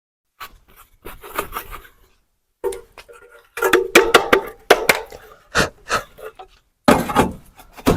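Irregular knocks and clattering, with a short pitched tone in the middle.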